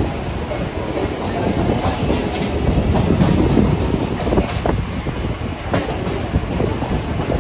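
Mumbai suburban local train running along the track, heard from its open doorway: a steady rumble of wheels on rail with irregular clacks over rail joints and points.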